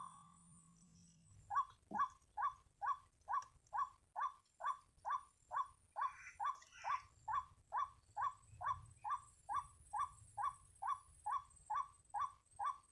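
White-breasted waterhen (ruak-ruak) calling: a long run of identical short, sharp notes repeated evenly at about two and a half a second, starting about a second and a half in.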